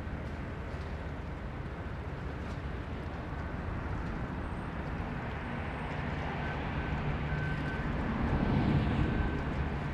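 Boeing 929 Jetfoil high-speed ferry running at speed, its gas turbines giving a jet-like rushing sound with a low rumble and a thin steady whine, swelling louder about eight seconds in as it draws closer.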